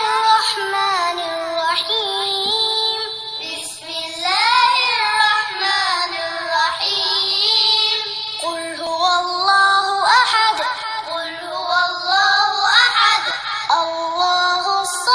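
A child's high voice chanting Quranic recitation in long, melodic, gliding phrases, with short pauses between them.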